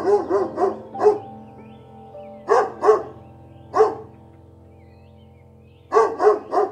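Dog barking in short barks: a quick run of about five at the start, two together and then a single bark in the middle, and three more near the end.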